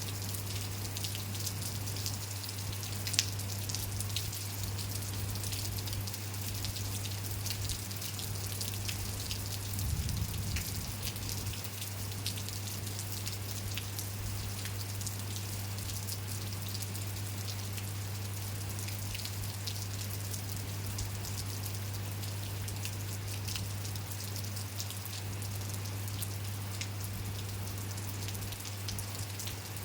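Steady rain falling, with many individual drops ticking over a constant hiss. A steady low hum runs underneath, and there is one sharper tick about three seconds in and a brief louder rustle about ten seconds in.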